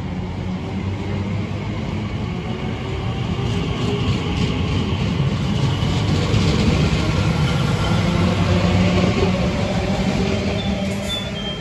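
Elizabeth line Class 345 electric train running along the platform: a steady low hum over rumbling wheel noise, growing louder and then easing a little near the end.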